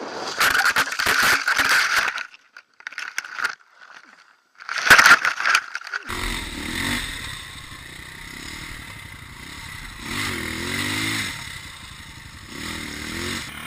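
Rough scraping and clattering noise in several loud bursts. Then, after an abrupt change, a dirt bike engine revs up and down three times.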